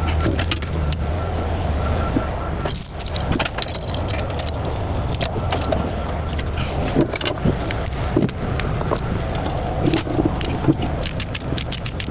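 Steel tie-down chains clinking and rattling as a heavy machine is chained down on a trailer, with a quick, even run of clicks near the end. A low engine hum fades out about a second in.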